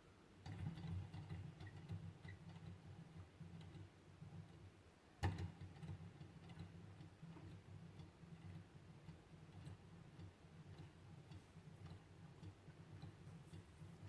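Hand-made Stirling engine running, a faint fast rhythmic ticking from its moving parts that starts about half a second in, with one sharp knock about a third of the way through.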